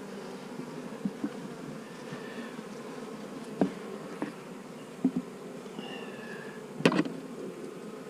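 Honeybees buzzing steadily in an open hive, with a few sharp knocks and clicks of hive parts being handled, the loudest about seven seconds in.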